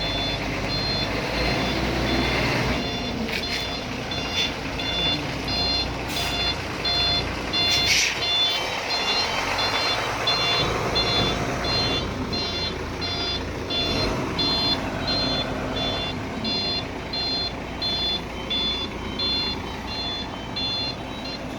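A truck's reversing alarm beeping steadily in short repeated high beeps, over the low rumble of a heavy truck's running engine, with a couple of brief hisses partway through.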